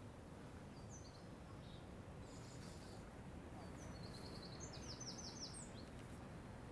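A bird chirping in short high calls, then a quick run of about eight repeated notes near the end, over a faint steady low rumble of city background.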